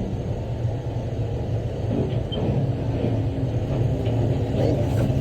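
Bell articulated haul truck's diesel engine droning steadily, heard from inside the cab, with a few faint rattles.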